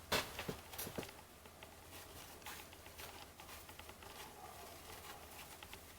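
Baseball cards being flipped through by hand: faint, irregular light clicks and rustles as cards slide off the stack, a few sharper ones in the first second.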